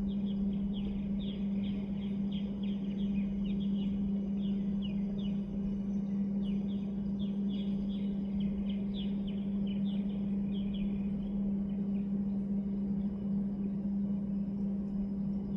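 Birds chirping in a rapid, overlapping series of short falling chirps, several a second, thinning out and fading after about eleven seconds, over a steady low hum and low wind rumble.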